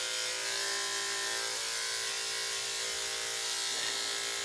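Electric dog-grooming clippers with a number 10 blade running at a steady hum while clipping around a dog's mouth and face.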